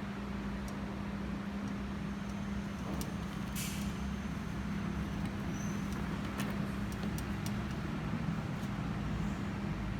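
Steady low electrical hum throughout, with a few faint scattered clicks and one short rasp about three and a half seconds in, fitting hand embroidery: needle and thread drawn through fabric.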